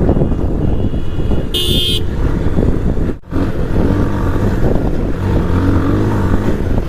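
Motorcycle engine running while riding, a steady low noise throughout. A short high beep sounds about one and a half seconds in, and the sound drops out for a moment about three seconds in.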